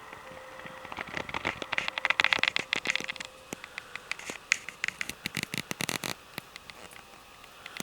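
Wood fire crackling and popping, with a dense run of crackles about a second in and scattered sharp pops after.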